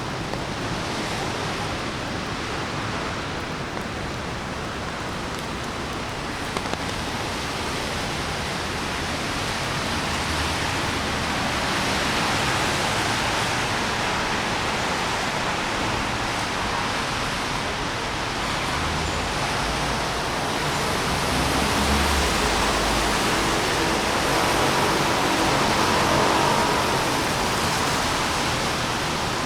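Steady hiss of rain on a city street mixed with traffic, with a low rumble of a vehicle going by about twenty seconds in.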